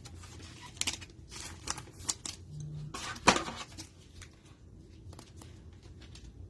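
Trading cards and cellophane pack wrapping being handled: scattered light rustles and clicks, with a sharper snap about three seconds in.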